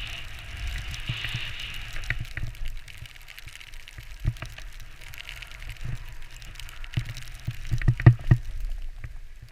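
Skis sliding and scraping over snow, with a low rumble of wind buffeting the microphone. There are a few sharp knocks, loudest in a quick cluster about eight seconds in.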